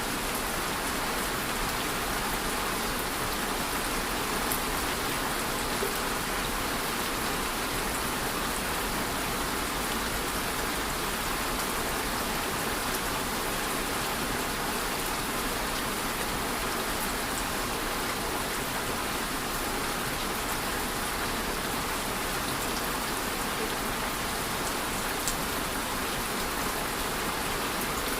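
Steady rain falling on a surface, an even hiss of many drops with a few sharper individual drop ticks.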